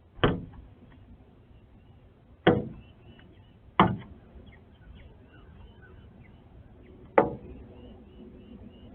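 A male northern cardinal striking a window pane: four sharp knocks on the glass, irregularly spaced, each ringing briefly.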